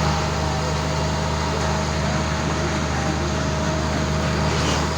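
Steady drone of a running motor, a low hum with a constant higher whine over it.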